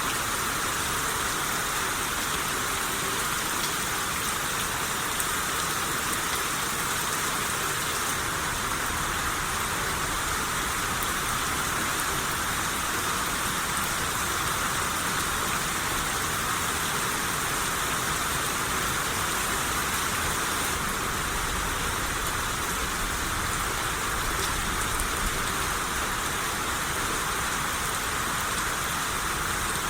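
Steady rain shower falling, a constant hiss with faint scattered drop ticks.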